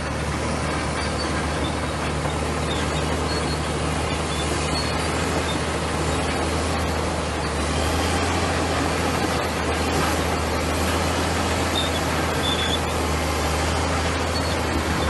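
Komatsu bulldozer's diesel engine running steadily under working load, a deep even drone with a few brief high squeaks over it.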